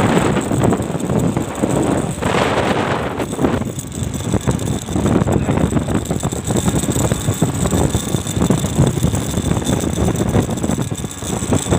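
Vehicle on the move in a sandstorm: a dense, fluctuating rumble of wind and running noise. A louder rush of noise comes about two seconds in.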